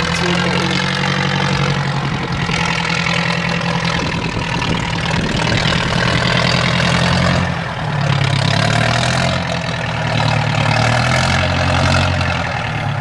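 IFA W50 4x4 truck's diesel engine running steadily, its revs dropping about halfway through and picking up again.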